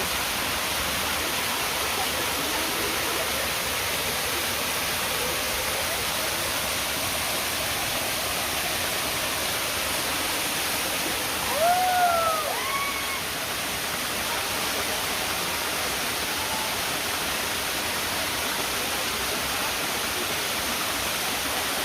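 Steady rushing of a stream or river. About twelve seconds in, a short voice-like call rises and falls in pitch above it.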